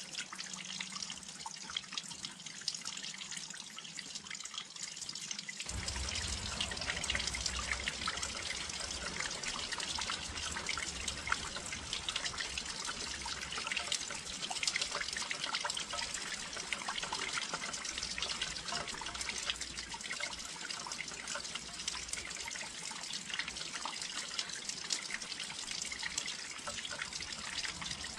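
Rain falling near a windowsill, a steady dense patter of drops and drips. A low steady rumble comes in suddenly about six seconds in and continues under the patter.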